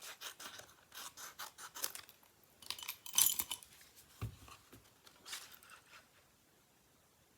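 Small scissors snipping paper in a quick run of short cuts, trimming a piece of cardstock, followed by a louder scrape of paper, a soft low thump and another brief scrape.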